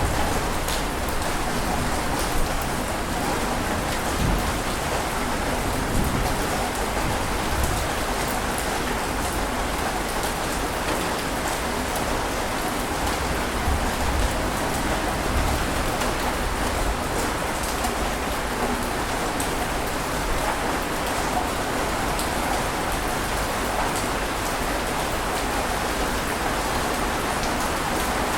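Steady rush of water noise, dense and even, with scattered drop-like ticks throughout and a low rumble right at the start.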